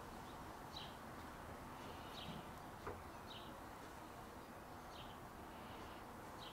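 Faint outdoor ambience: a bird's short, high chirps, about one a second, over a steady background hiss.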